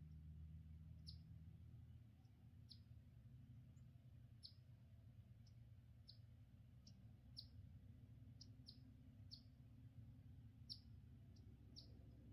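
Faint bird chip notes: short, high, downward chirps, more than a dozen at uneven intervals, over a low steady rumble.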